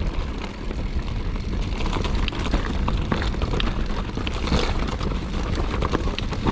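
Mountain bike rolling over a rough, rocky trail: a steady low rumble with many small clicks and knocks from the bike and tyres.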